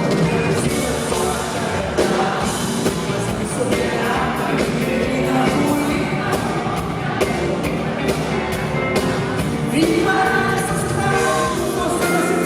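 Live band music with a lead vocal singing over it, played loud and steady.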